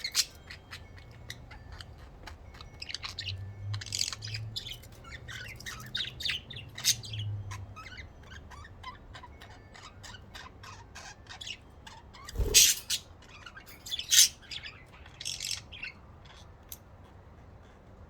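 Pet budgerigars chirping and chattering, with many quick high calls, and one loud, sharp burst about twelve seconds in.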